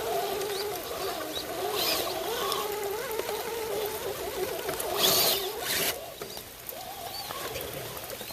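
Small electric motor and gears of a tiny-scale RC crawler truck whining, the pitch wavering up and down with the throttle, and fading out about six seconds in. A short scuffing noise about five seconds in.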